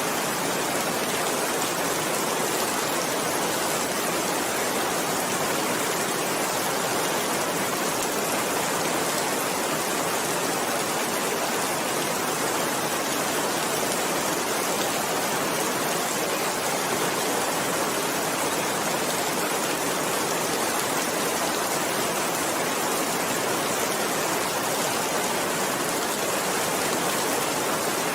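Steady rain falling, an even hiss with no change and no thunder.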